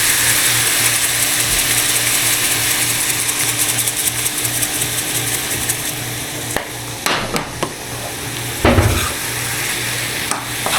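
Ground turkey sizzling in a frying pan, a steady hiss, with a few sharp knocks of a utensil against the pan in the second half as it is stirred.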